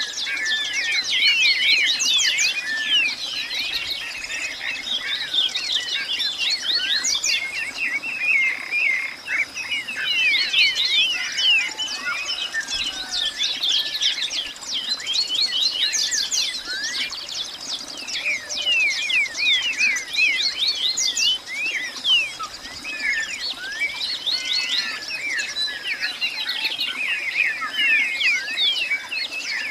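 A dense chorus of many small birds chirping and calling over one another without pause, with a steady high-pitched tone running underneath.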